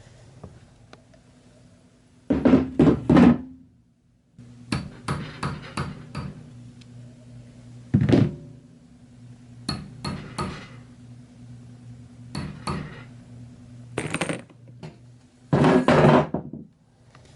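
Clusters of knocks and clatters from hard objects being handled, loudest twice, over a steady low hum.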